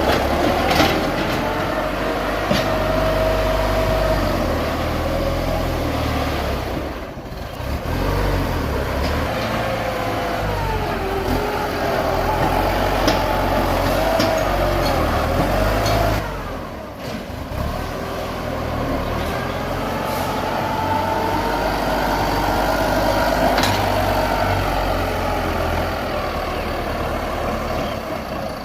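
Tractor engine running under load while pushing and levelling soil, its pitch rising and falling as it works. The sound drops briefly twice.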